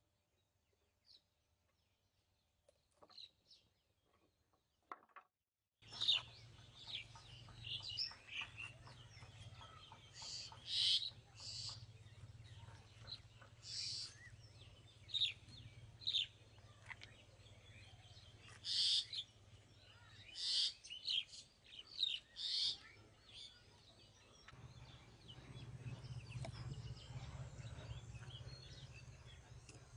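Birds chirping in many short, high calls over a steady low rumble, with a few faint knocks in the first seconds.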